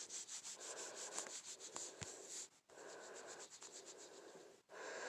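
Faint, rapid rubbing of a fingertip back and forth across a phone's touchscreen, in short repeated strokes with a couple of brief pauses.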